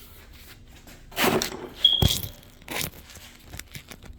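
Metal tools and brake parts handled on a workbench: a few scrapes and knocks, the sharpest about two seconds in with a short metallic ring, then lighter clicks.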